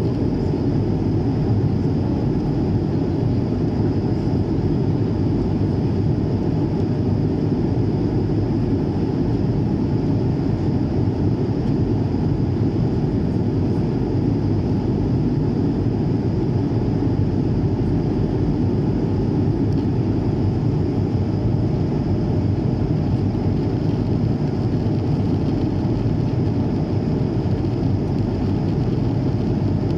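Steady cabin noise of an airplane in flight: a constant deep rush of engine and airflow noise, with a faint steady high whine above it.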